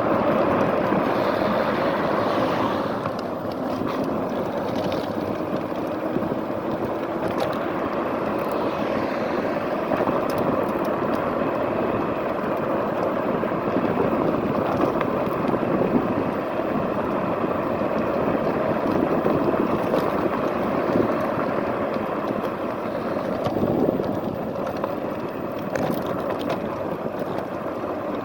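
Steady wind rush and road noise from riding a fat-tyre electric scooter, picked up by a phone in a handlebar-area mount, with a few faint clicks from bumps.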